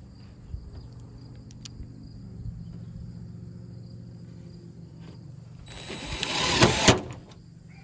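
Insects chirping steadily over a low hum. Near the end a loud rush of noise builds for about a second and ends in two sharp knocks about a third of a second apart.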